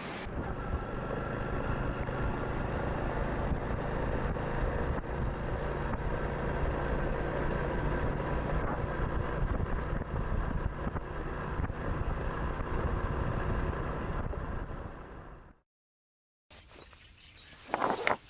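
Honda Super Cub's small engine running at a steady pace while riding, with a low steady hum under wind and road noise. It fades out about fifteen seconds in.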